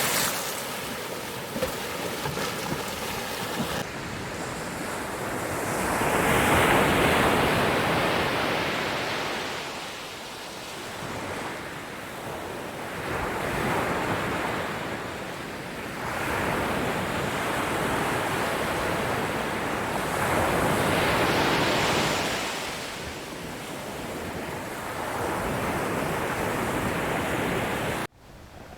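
Ocean waves breaking and washing ashore, each swell rising and fading over a few seconds. Near the end the sound cuts off suddenly to a quieter, steady hiss.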